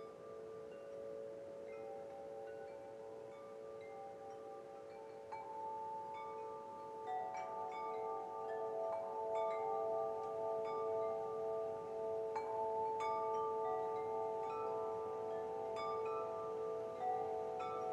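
Wind chimes ringing, many overlapping metal tones struck again and again and left to ring, getting busier and louder about a third of the way in.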